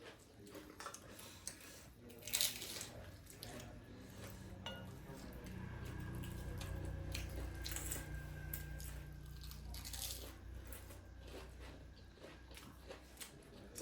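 A person chewing and crunching food close to the microphone, in small irregular crunches and mouth clicks. A low steady hum comes in about four seconds in and fades near the end.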